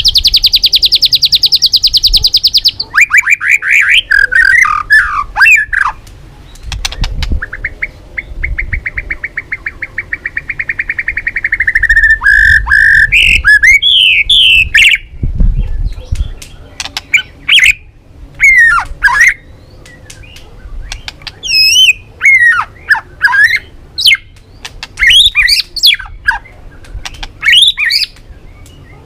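White-rumped shama singing: a long fast rattling trill at the start and another in the middle, between varied loud whistled phrases with quick sweeping notes, many falling steeply in pitch.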